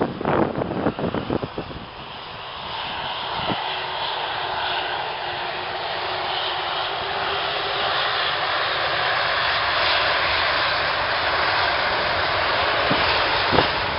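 An airliner's engines growing gradually louder as the aircraft approaches, after about two seconds of wind buffeting the microphone. A short knock comes near the end.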